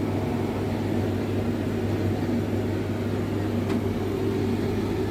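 Hotpoint TL51 tumble dryer running on its low-heat setting: a steady motor hum with a faint click about three and a half seconds in. On this setting the drum gets no heat, which the owner cannot explain.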